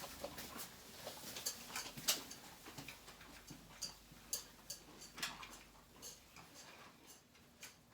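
A run of light, sharp clicks and taps, roughly three a second and not quite even, over a faint low hum.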